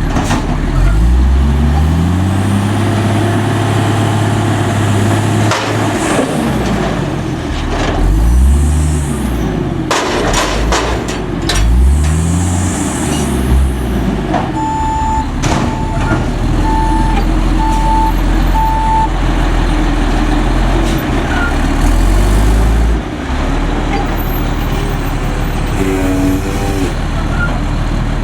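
Autocar garbage truck's diesel engine revving up and down several times, with bursts of air hiss and a few metallic knocks. Partway through, five evenly spaced reversing beeps sound about a second apart, then the engine settles back to a steadier run.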